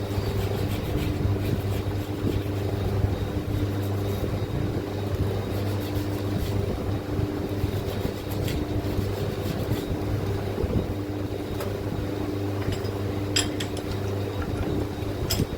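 A steady machine hum, even throughout, with a few light clicks near the end.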